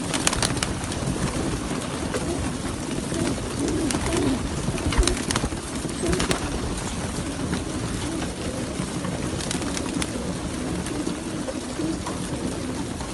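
Many racing pigeons cooing together without a break, with a few sharp clicks scattered through.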